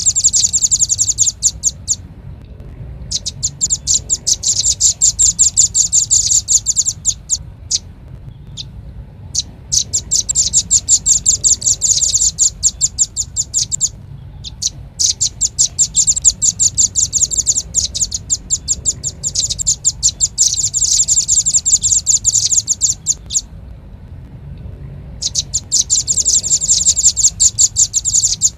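Velvet-fronted nuthatch (rambatan paruh merah) calling in rapid, high trills of sharp chip notes. The trills come in runs of a few seconds with short pauses between them. This is a recorded lure call.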